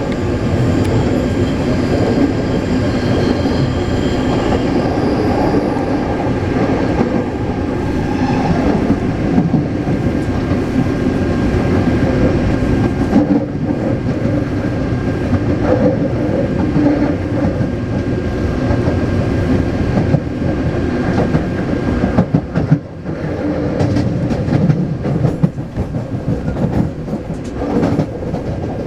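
Taipei Metro C381 train running along the line, a steady rumble with wheel-on-rail clatter. Faint high tones ring over it in the first several seconds, then fade.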